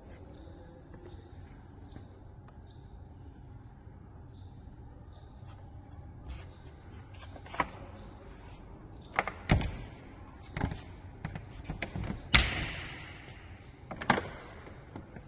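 A low steady hum, then a series of irregular knocks and thuds through the second half, the loudest about twelve seconds in.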